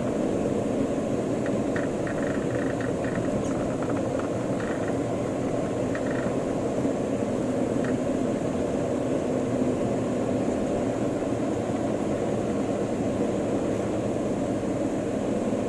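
Steady road-vehicle noise: engine and tyre noise of traffic on a road, with a few faint short high chirps in the first eight seconds or so.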